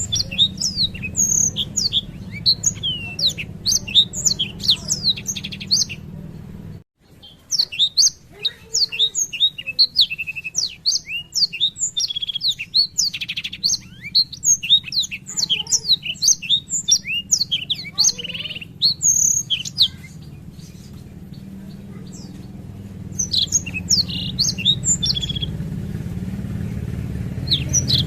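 Blackthroat (black-throated canary) singing a long, rolling song of rapid high chirps and trills in several runs. It breaks off briefly about a quarter of the way in and thins out a little past the middle, over a steady low hum.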